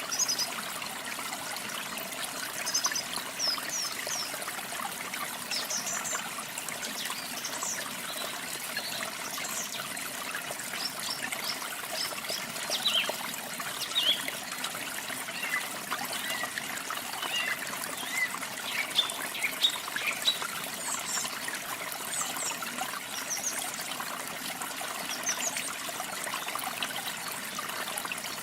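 Steady trickling and splashing of falling water, with small birds chirping and singing over it in short, high phrases throughout.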